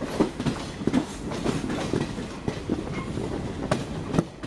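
Passenger train coach rolling along the track, heard from its open door: a steady rumble with an irregular run of sharp knocks and clatter from the wheels passing over the rail joints.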